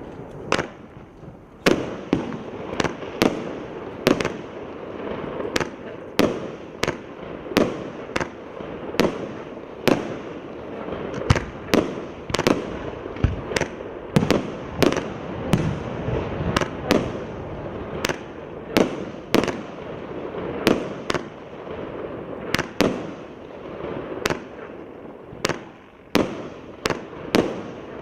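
A 120-shot consumer firework cake with 1.2–1.5 inch tubes firing shot after shot. Sharp bangs come about one and a half times a second over a continuous rushing, crackling noise.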